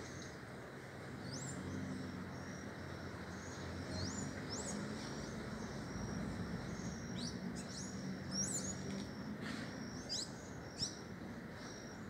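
Several small birds calling: many short, high, sharp chirps and brief whistles, repeated throughout, over a steady low hum.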